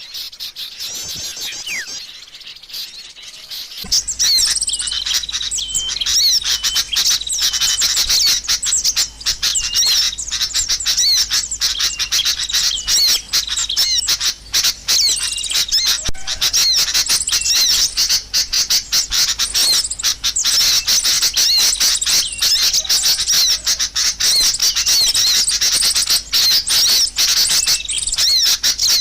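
Bird-lure recording of many small birds chirping and twittering in a dense, unbroken high-pitched chorus, which gets louder about four seconds in.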